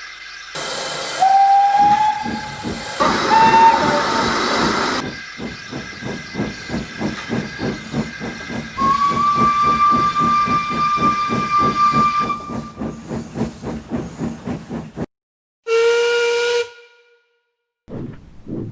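Steam locomotive: a burst of steam hiss with two short whistle blasts, then the engine chuffing at about three beats a second with a long whistle sounding over it. After a sudden cut comes one shorter, lower-pitched whistle and a moment of silence, and chuffing starts again near the end.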